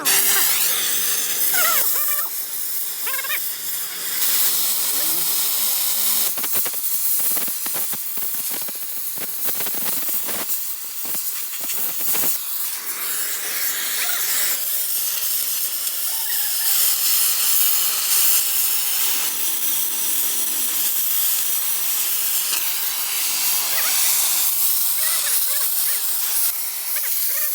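Electric welding arc hissing and crackling steadily, with a stretch of sharper crackles in the middle.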